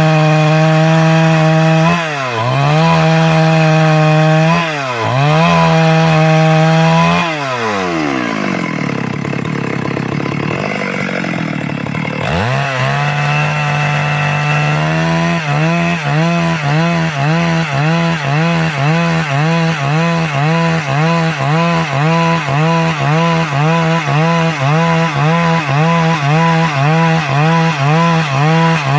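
Stihl MS 382 two-stroke chainsaw running at full throttle as it rips a log into boards. Its pitch dips briefly a couple of times, then falls away for several seconds as the throttle is let off, and rises sharply back to full revs. From about halfway it wavers under load about once a second.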